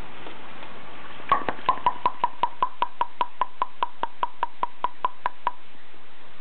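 A pet bird giving a rapid run of about twenty short, sharp calls, about five a second, starting a second in and stopping some four seconds later.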